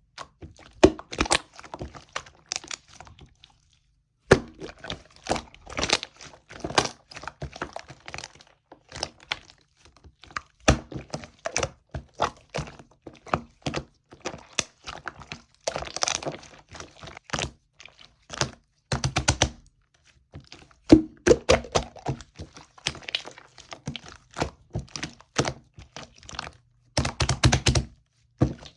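Slime being squeezed and pressed by hand, giving dense runs of sharp clicks and pops with short pauses between handfuls.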